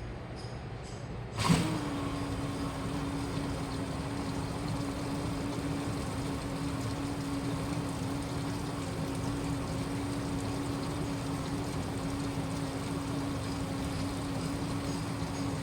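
Washing machine switching on with a sharp click about a second and a half in. A steady mechanical hum and a rushing of water follow and run on evenly.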